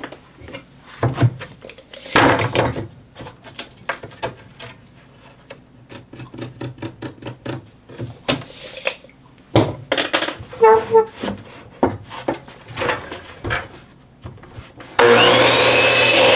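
Cedar fence-picket boards being handled, with a scatter of irregular wooden knocks, taps and scrapes. About fifteen seconds in, a power saw starts abruptly and runs loud and steady.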